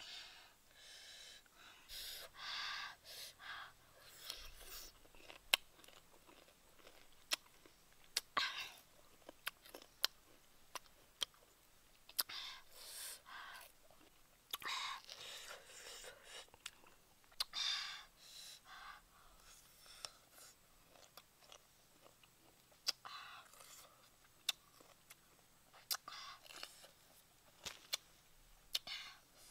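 A person biting and chewing small, firm green fruits close to the microphone, in bursts of a second or two, with sharp clicks between.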